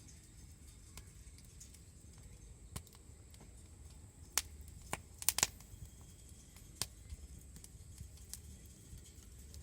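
Wood campfire crackling: scattered sharp pops and snaps from the burning wood, with a quick cluster of the loudest pops a little past the middle.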